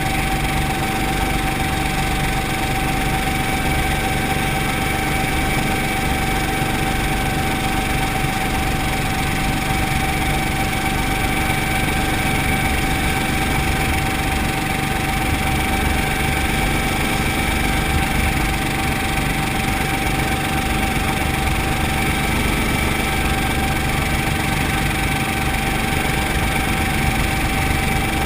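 Brantly B2B helicopter's piston engine and rotor running steadily at constant power, with a steady whine over a low rumble.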